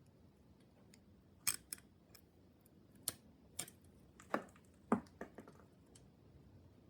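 Small metal bottom-bracket parts, such as the caged bearings and cups, clicking and clinking as they are handled, about eight sharp taps spread over a few seconds, two of them ringing briefly.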